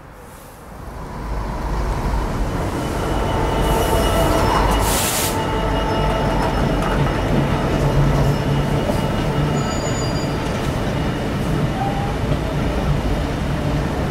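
A diesel locomotive hauling a freight train of bulk tank wagons past, rising to a loud steady rumble about a second in as the engine and rolling wagons go by, with thin high wheel squeals over it.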